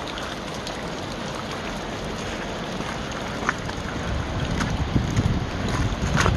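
Waterfall rushing steadily, swollen after heavy rain, with wind buffeting the microphone from about four seconds in.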